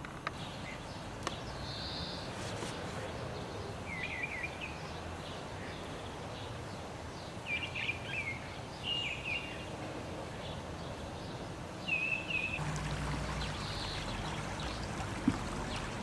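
Small songbird chirping: a few short, sharp calls in small clusters over steady background hiss. A low rumble comes in during the last few seconds.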